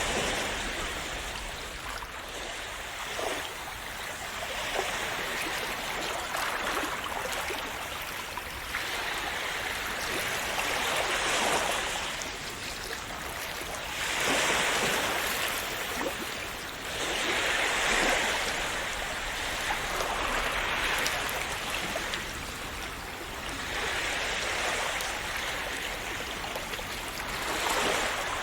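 Small sea waves washing onto a shore, each swell of surf rising and falling away every three to four seconds over a steady hiss of water.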